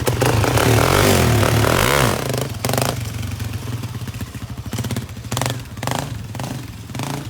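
400 cc ATV engine revved hard for about two and a half seconds, then dropping back to a lower run broken by a few brief louder bursts.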